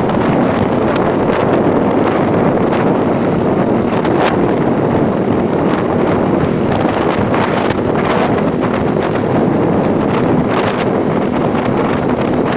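Loud, steady rush of wind on the microphone of a moving vehicle, with engine and road noise mixed in.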